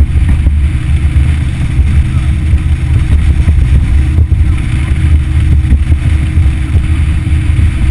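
Yamaha F60 four-stroke outboard motor running steadily, a constant low drone with no change in speed.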